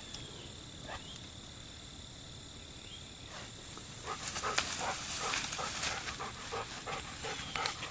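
Insects trilling steadily in the woods. About halfway through, a quick run of short breathy bursts starts up close by: a Golden Retriever panting.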